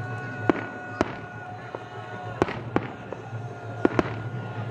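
Fireworks going off: about six sharp bangs at uneven intervals, two of them close together near the middle and another pair near the end.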